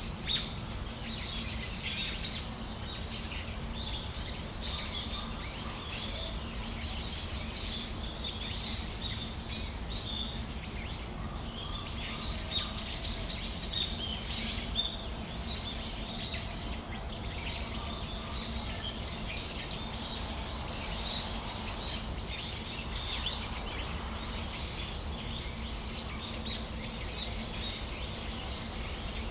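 Brown-eared bulbuls calling: many short, high-pitched calls, busiest around the middle, over a steady low hum.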